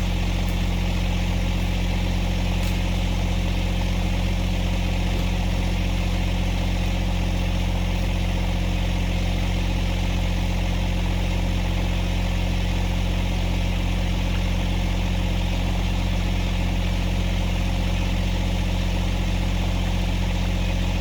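Compact tractor's diesel engine running steadily at a constant speed while the backhoe digs.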